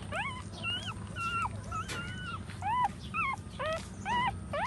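Several young puppies whimpering and squeaking over one another in short, quick cries that rise and fall in pitch, about three a second.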